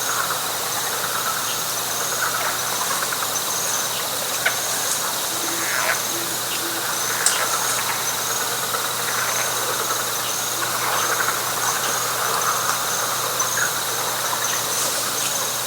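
Night chorus of frogs and insects in a wet pine flatwoods: a dense, pulsing trill in the middle range, a high trill that repeats in short, even phrases, and a thin steady high whine, with a few short chirps and clicks scattered through it.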